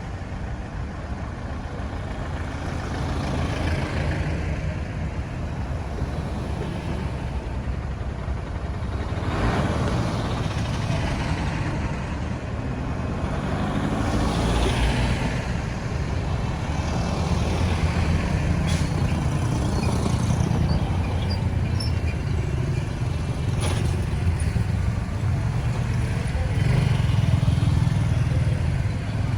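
Road traffic noise: steady engine rumble and tyre noise, with several swells as vehicles pass close by.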